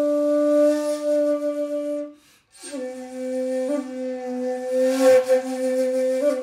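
Intro music led by a flute-like wind instrument playing long held notes. It breaks off for a moment about two seconds in, then comes back with another long note ornamented by small slides.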